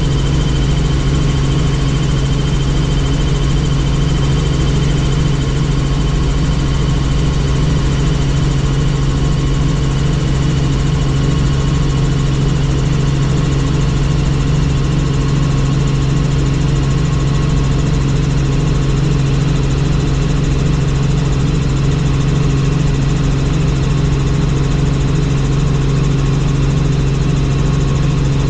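Helicopter in flight, a loud, steady deep drone with a thin high whine held above it.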